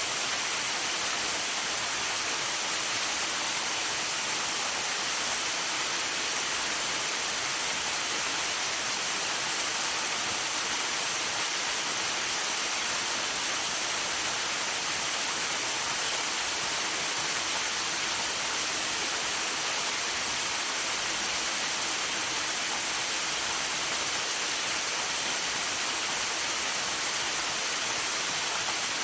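Waterfall rushing steadily: an unbroken, hissing wash of falling water with no separate events.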